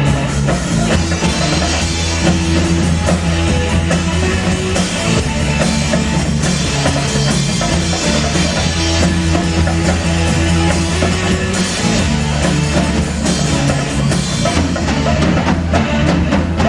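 Rock music with drum kit, bass and guitar playing, without singing.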